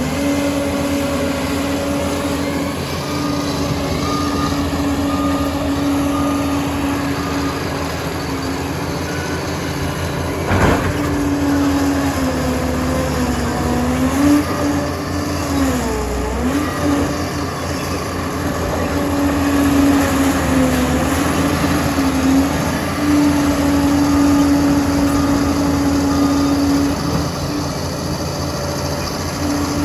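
Liebherr 746 bulldozer's diesel engine running steadily, its pitch sagging and recovering a few times in the middle as the machine works under load. A single sharp knock sounds about eleven seconds in.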